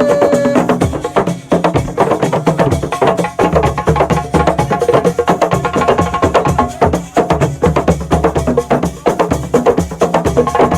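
Senegalese assiko percussion music: a dense, fast rhythm of drums and sharp wood-block-like clicks. A held note ends about half a second in, and shorter pitched lines come and go over the beat.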